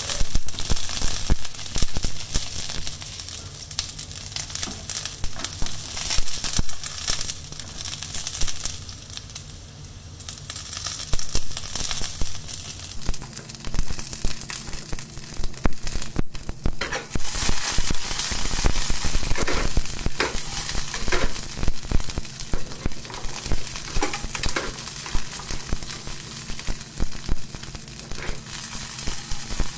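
Potato wedges and asparagus sizzling as they fry in a frying pan. Tongs turning and lifting the food make frequent clicks and scrapes against the pan.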